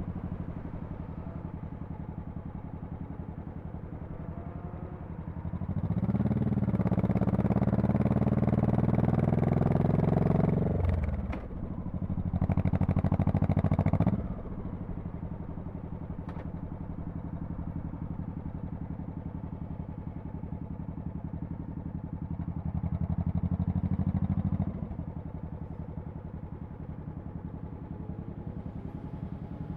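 2002 Honda Shadow Spirit VT1100C's V-twin exhaust running at low throttle. It opens up about six seconds in, rising in pitch, with a short break in the pull about eleven seconds in, and pulls again until it drops back off the throttle about fourteen seconds in. Another short pull on the throttle comes about twenty-three seconds in and eases off about two seconds later.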